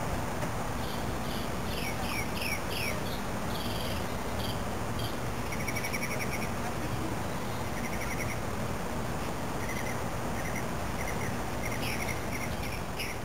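An unidentified bird calling repeatedly: a run of quick curved, slurred notes, then several short, rapid trills. A steady low background noise runs underneath.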